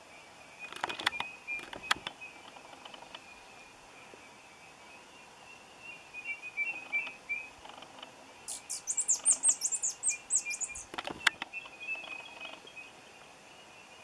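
A bird calls with a fast run of very high, down-slurred notes, about seven a second, for about two seconds past the middle, with a few sharp clicks before and after and faint high chatter throughout.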